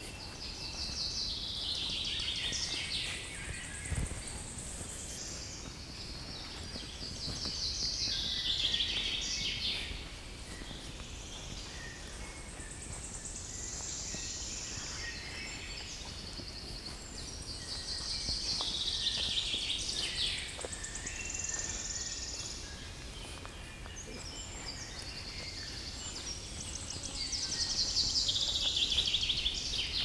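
A songbird sings the same short phrase over and over, about every four to five seconds: a fast trill that falls in pitch. A steady low hiss of forest background lies beneath it.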